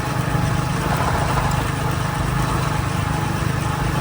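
Motorcycle engine running at a steady speed, under a constant rush of wind and road noise, as heard from the bike being ridden.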